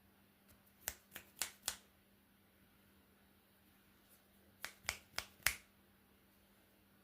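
Finger snaps, two quick runs of four sharp snaps about three and a half seconds apart.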